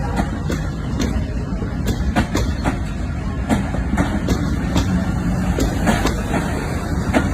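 Alco diesel-electric locomotive's engine humming with a steady low rumble as the train runs, with irregular clicks of wheels over the rails throughout.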